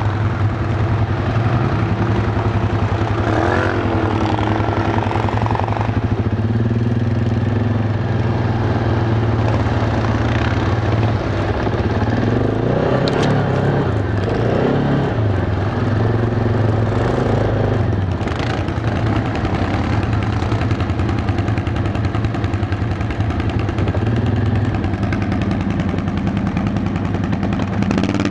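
ATV engine running steadily, heard from on board the moving quad, with its pitch rising and falling briefly a few seconds in and again around the middle.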